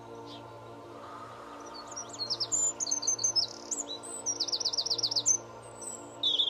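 Small songbird chirping in quick high notes, with a fast trill of repeated notes about five seconds in, over soft sustained background tones.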